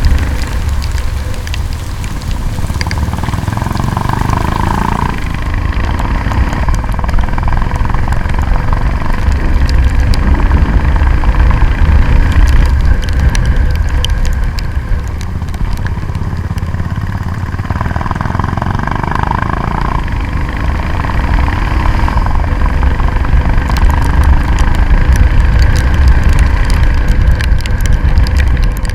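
A motorcycle running on the move, with a steady, loud, low rumble throughout. The sound cuts off abruptly at the end.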